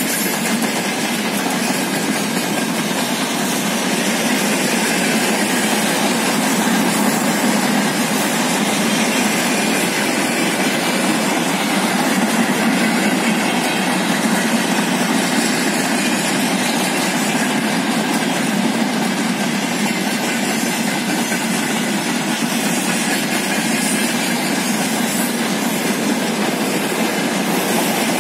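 Freight wagons of a train (grain hopper cars, open wagons, tank cars) rolling steadily past, the wheels running on the rails with a continuous rattle.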